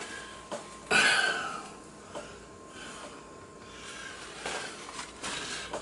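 Paper towel rustling while wiping up a wet tabletop, with one louder crinkle about a second in and a few light knocks.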